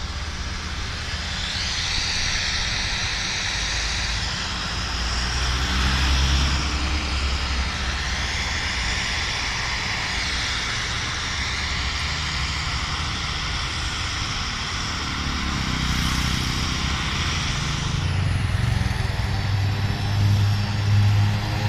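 Aircraft engines running at an airfield: a steady drone with a high whine over a hiss, and a deeper drone building louder near the end.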